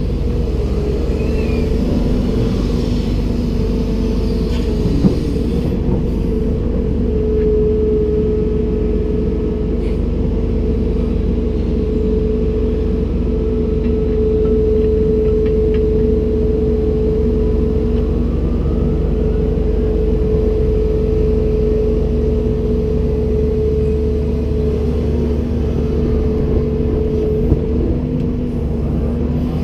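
Komatsu PC290-10 excavator's diesel engine and hydraulics running steadily, with a steady whine over the engine drone and two brief clicks.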